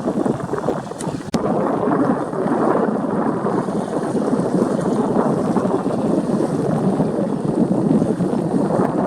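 Steady rough noise of wind buffeting the microphone on a seashore, with the wash of surf, continuous and loud.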